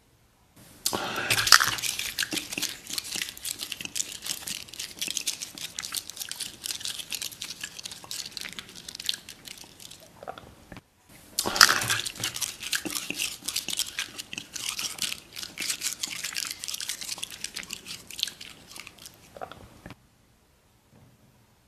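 Close-miked crunchy biting and chewing in two spells of about nine seconds, each starting with a louder bite and separated by a short pause. It is a staged ASMR eating sound for a foil jar seal smeared with cream; the eating is not real.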